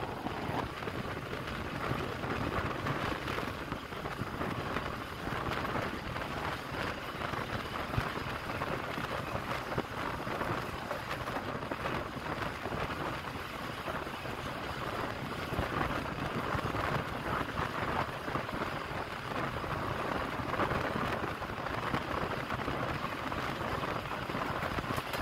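Moving passenger train running on the track, heard from an open coach window: a steady, even rumble and rush of noise from the wheels and the passing air.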